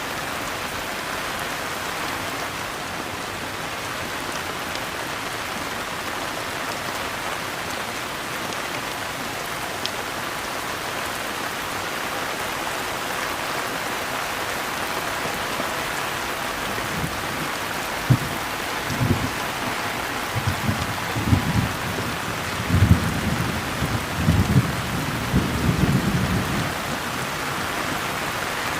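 Steady rain pattering, with low rolling thunder that rumbles in about halfway through and swells in several peaks for around ten seconds before fading back to rain alone.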